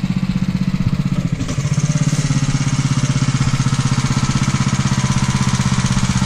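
Small gasoline pressure-washer engine running steadily at speed, with a fast, even firing pulse. A hiss above the engine note grows louder about a second and a half in.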